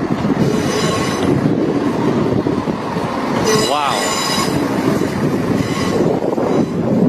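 A train pulling into a station platform: a steady rumble of wheels on the rails, with high-pitched wheel and brake squeals that come and go three times, loudest about halfway through.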